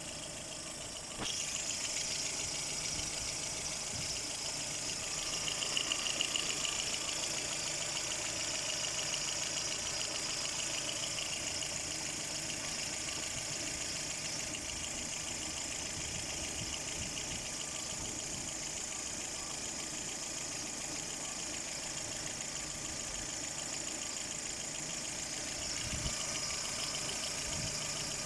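Lada Kalina engine running steadily at idle, with an unexplained knock that the owner cannot place. The sound gets louder and brighter about a second in.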